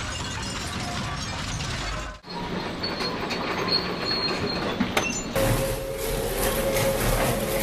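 Heavy industrial crushing or shredding machinery grinding and clattering through material, with many small knocks. It breaks off briefly about two seconds in. After about five seconds a louder low rumble and a steady hum come in.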